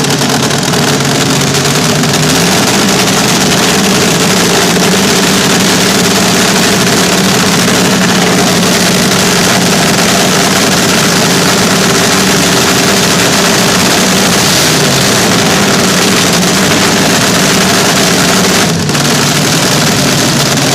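Vintage slingshot dragster engines running loud at a steady fast idle, their pitch shifting slightly about two seconds in and again later on.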